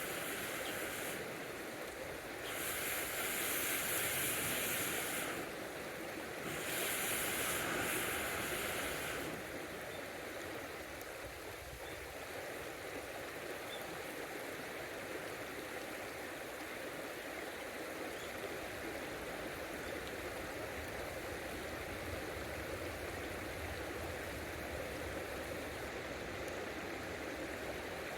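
River water flowing steadily. Two louder hissing stretches of a few seconds each come in the first third.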